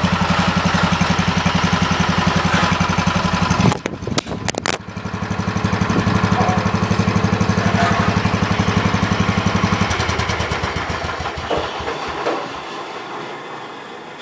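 Wheel Horse garden tractor engine running steadily under way in first low gear. About four seconds in there are a few sharp clattering knocks as the recording iPod falls, and the engine sound briefly drops out. The engine then picks up again and fades away over the last few seconds.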